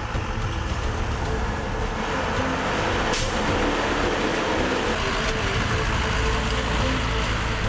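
Dongfeng 4WD off-road truck on the move: the engine running under a steady, heavy rush of tyre and road noise.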